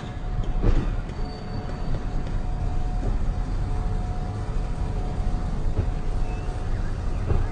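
Train running with a steady low rumble and a steady mid-pitched hum that stops about three-quarters of the way through.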